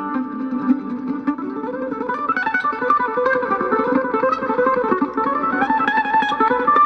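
Mandolin picked in fast melodic runs of quick notes over a sustained lower accompaniment.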